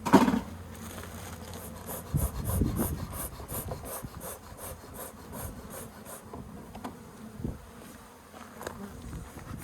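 Honeybees buzzing around an opened colony, with a sharp knock right at the start and a run of quick rubbing or scraping strokes on wood, about five a second, in the first half.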